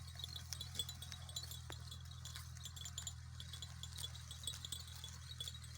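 Small goat bells tinkling faintly and irregularly, over a steady low hum.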